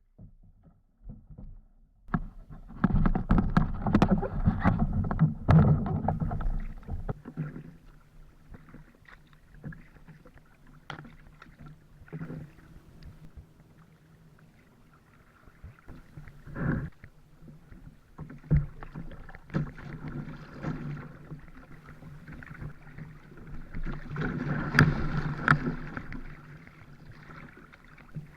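Sea kayak being paddled: paddle blades dipping and splashing, with water washing along the hull. The splashing is loudest for a few seconds near the start and again near the end, with a couple of sharp knocks in the quieter middle.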